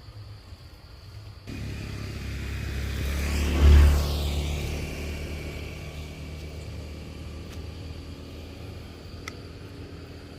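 A motor vehicle drives past, growing louder to a peak about four seconds in, then fading away.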